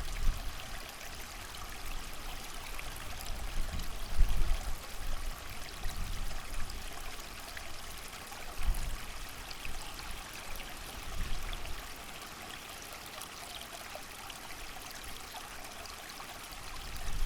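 A creek running steadily, with wind gusting in low rumbles a few times, strongest about four seconds in.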